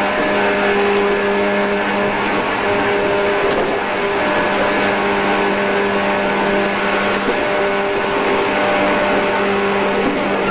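Running sound inside a JR East 113-series electric train: a steady hum over a continuous wash of wheel and rail noise. The lowest hum fades about seven seconds in.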